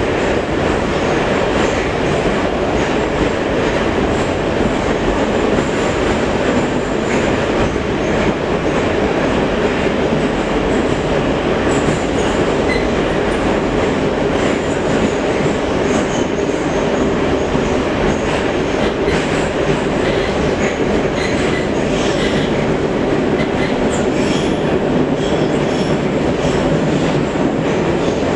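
Kharkiv Metro train running between stations, heard from inside the carriage: a loud, steady roar of wheels and motors in the tunnel, with faint wheel squeals and rail clicks later on.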